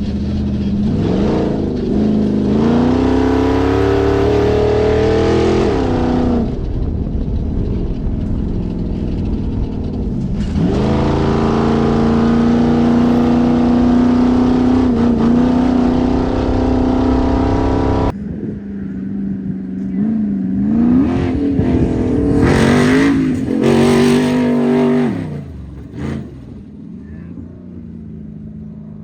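V8 engine of an Ultra4 4400 race car (a mild GM LQ4) running at full throttle. Its pitch climbs and drops off twice, holds steady at high revs for several seconds, and after an abrupt cut climbs and drops once more near the end.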